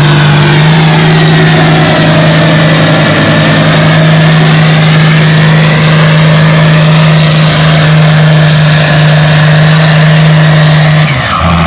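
International Harvester 1256's turbocharged six-cylinder diesel running flat out under load, pulling a 9,000-pound weight-transfer sled with a loud, steady engine note. The note drops off suddenly about eleven seconds in as the tractor is pulled down and stops.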